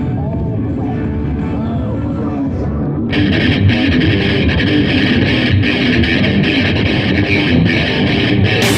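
Loud rock song with electric guitar, played on a roller coaster's onboard audio. A brighter, harder layer comes in about three seconds in, and a rushing hiss joins near the end.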